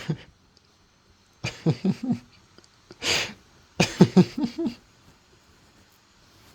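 A man's short vocal sounds: two brief clusters of voice, with a single breathy, cough-like burst between them about three seconds in.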